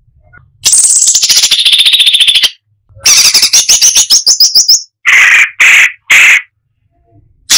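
Cucak cungkok singing in loud, separate phrases: a fast rattling trill, then a rapid run of high notes, then three loud lower notes in a row, and a short burst near the end.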